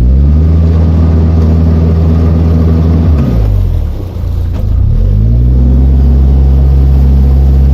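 Narrowboat engine run hard under throttle. It eases back to near idle about three to four seconds in, then revs up again and holds high, as the boat is manoeuvred hard in a strong river current.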